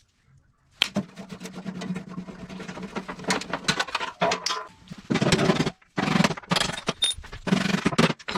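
Cordless impact driver backing out the bolts of a chipper's guard. It runs steadily for a few seconds, then hammers in three short bursts of about a second each.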